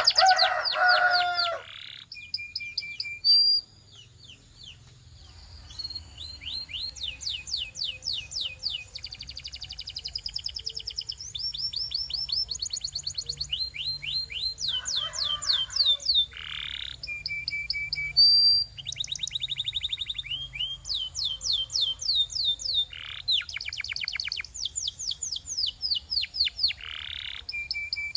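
Domestic canary singing a long song of fast trills and rolls: runs of rapid notes each sweeping down in pitch, alternating with level-pitched rolls and short high notes, broken by brief pauses.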